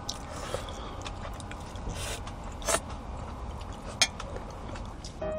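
A person chewing and biting into a tortilla wrap, with a few sharp clicks about two, nearly three and four seconds in.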